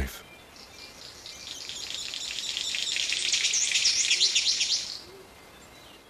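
A forest bird singing a fast run of high chirping notes that grows louder and stops abruptly about five seconds in, with a few faint low notes beneath it.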